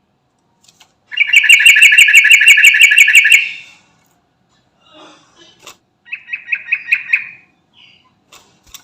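Yellow-vented bulbul (trucukan) singing a loud, fast rolling trill of repeated notes, about eight a second, lasting about two seconds. A shorter trill follows about six seconds in.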